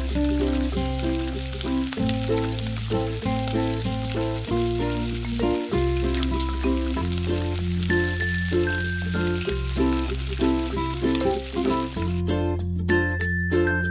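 Tomato wedges sizzling as they fry in hot oil in a wok, under background music with steady sustained notes and a bass line. The sizzle stops near the end, leaving only the music.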